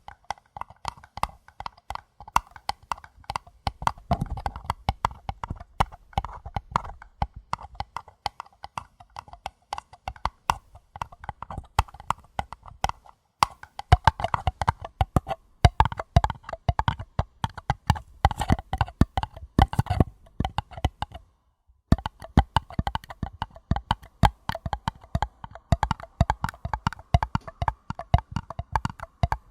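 Paper cups being tapped in quick, dense runs of light taps, breaking off briefly about 13 seconds in and again, for about half a second, some 21 seconds in.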